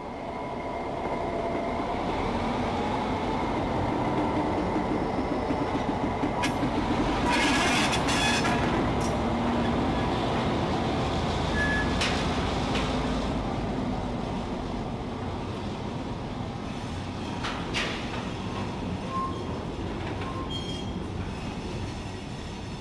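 Slow freight train pulled by a diesel switcher locomotive rolling past: a steady engine rumble and wheel noise, with several sharp clanks through the middle and a few short wheel squeals.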